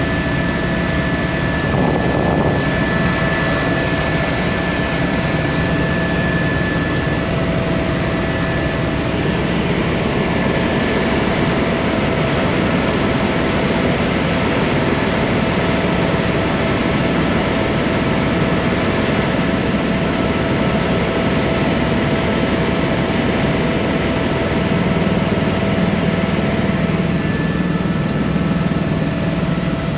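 Tour helicopter's engine and rotors heard from inside the cabin: a loud, steady rush with a constant high whine.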